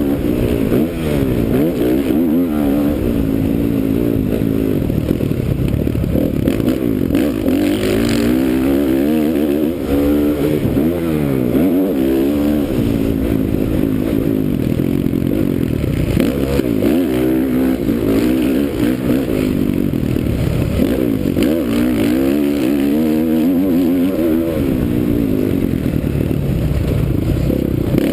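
2009 Honda CRF450R's single-cylinder four-stroke dirt-bike engine ridden hard, its pitch rising and falling over and over as the throttle is opened and chopped and the gears change.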